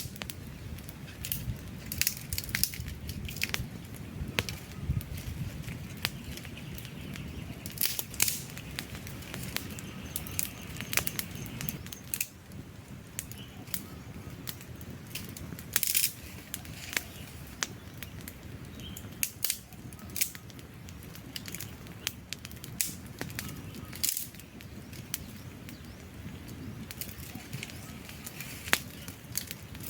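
Wood campfire crackling and popping. Sharp, irregular pops come every fraction of a second over a low, steady rumble of burning.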